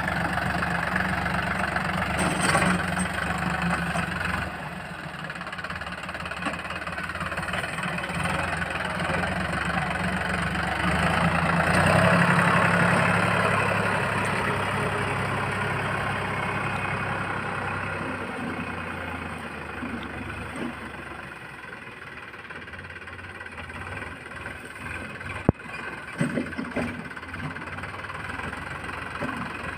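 Diesel engine of a heavy farm machine running steadily. It grows louder to a peak about twelve seconds in, then fades away, with a sharp click near the end.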